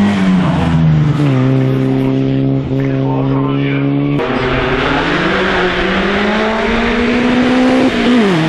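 Historic racing car's engine under hard acceleration on a hillclimb. The engine note falls about a second in and holds steady. About four seconds in it turns harsher and climbs slowly under load, then drops sharply near the end as the car changes up a gear.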